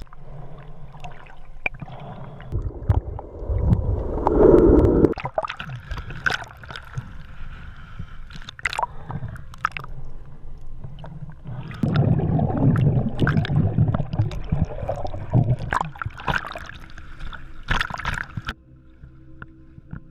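Water gurgling and splashing around a camera held in the lagoon while snorkeling: uneven swells of water noise with scattered sharp clicks, louder around five seconds in and again for a few seconds past the middle.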